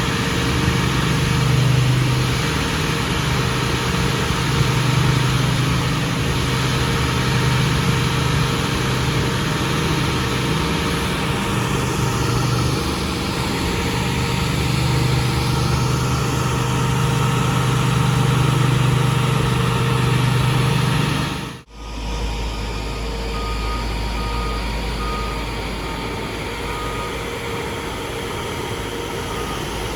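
Heavy asphalt-paving equipment engines running with a steady low hum. After an abrupt cut about two-thirds of the way through, a reversing alarm beeps repeatedly over the engine noise.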